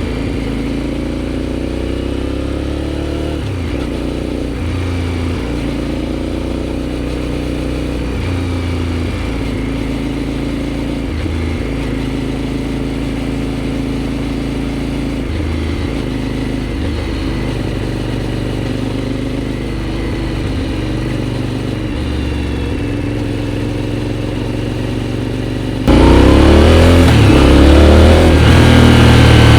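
Aprilia Shiver 750 V-twin running through an aftermarket GPR exhaust while being ridden, its pitch rising and falling with throttle and gear changes. About 26 seconds in, the engine sound abruptly becomes much louder and brighter.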